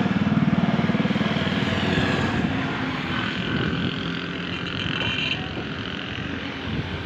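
Motorcycle engine of a homemade small truck running with a fast, even pulse, loudest in the first second or two and easing off after.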